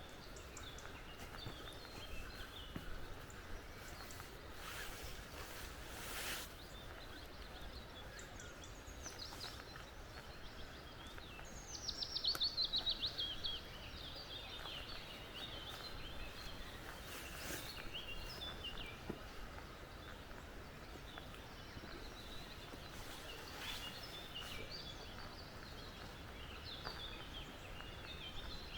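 Several forest birds calling and singing over a steady background hiss. About twelve seconds in, one bird gives a loud, rapid run of notes falling in pitch. A few brief rustles or knocks come near six and eighteen seconds.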